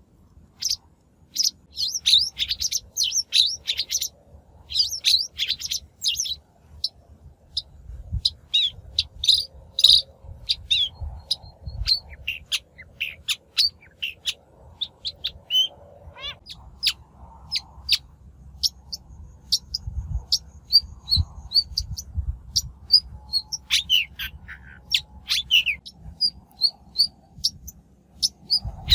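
Shrike song used as a lure call: a rapid, continuous run of short, sharp chirps and chattering notes, with a low rumble underneath.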